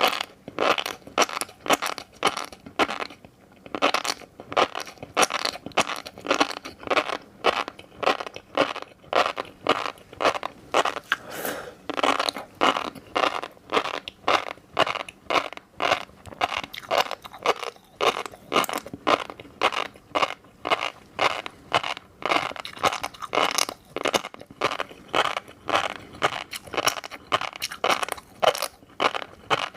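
Close-miked eating sounds: fish roe being chewed, the beads popping and crunching in a steady run of sharp clicks, roughly two a second.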